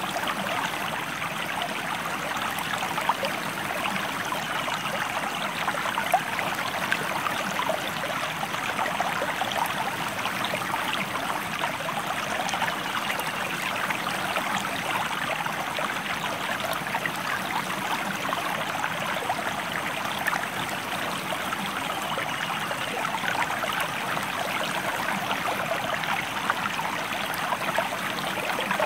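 River or stream water running steadily, a continuous babbling rush.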